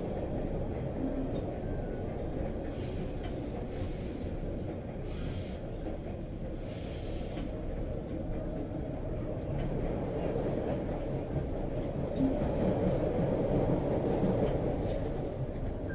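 Subway train running, a steady low rumble of wheels and motors with brief hissy swells, growing louder about twelve seconds in.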